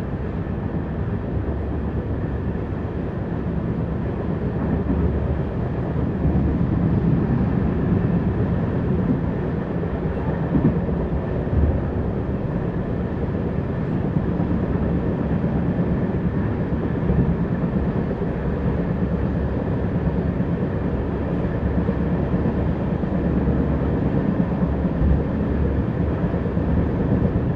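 Steady rumble of a moving express train's wheels on the track, heard from inside a passenger coach, with a couple of sharper knocks about eleven seconds in.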